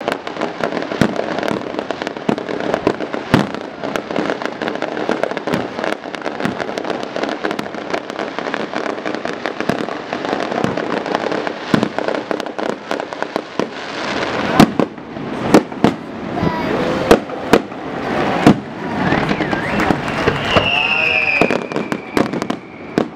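Fireworks display: a dense crackle with many sharp bangs. In the second half the bangs grow louder and further apart.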